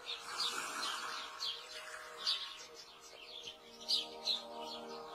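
Birds chirping, short high chirps about two or three a second, over faint sustained music tones.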